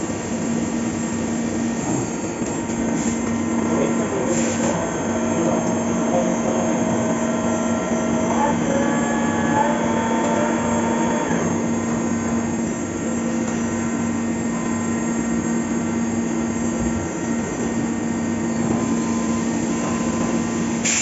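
Fagima Jazz M five-axis CNC machining centre milling a part: a steady hum with higher whining tones that come and go and shift in pitch as the cutter works.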